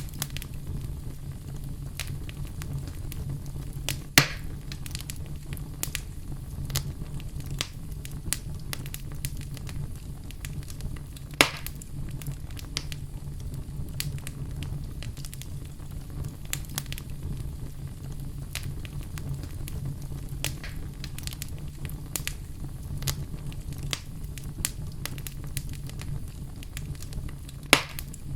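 Wood fire burning in a fireplace: a steady low rumble with frequent irregular crackles and pops, three of them sharp, loud snaps.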